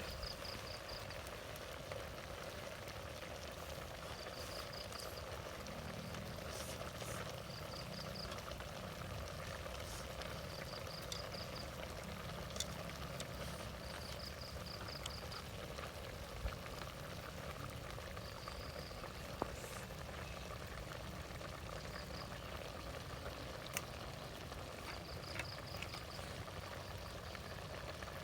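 Steady rain falling, with short high chirping trills from a small animal every few seconds and scattered sharp ticks.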